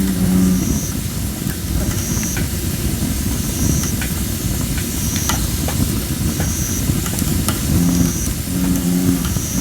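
Campfire of thin, poorly dried red robin (photinia) wood, hissing steadily as moisture steams out of the logs, with scattered sharp crackles. Bullfrogs give low calls at the start and again about eight seconds in.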